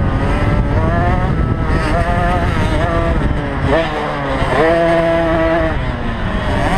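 Small two-stroke 50cc motocross bikes racing, engines revving up and dropping back through gear changes and corners, with a sharp rev rise a little past halfway and a held high note just after.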